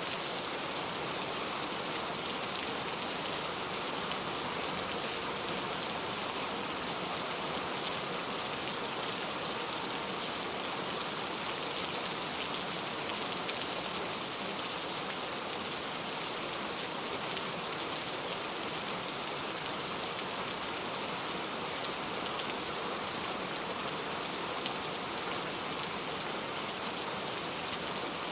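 Steady rain falling, an even hiss with fine pattering drops that holds at one level throughout.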